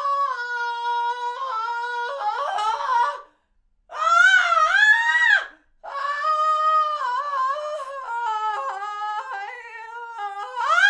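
High-pitched screams, three in a row with short breaks between them. The last scream is long and wavering, and its pitch slowly sinks.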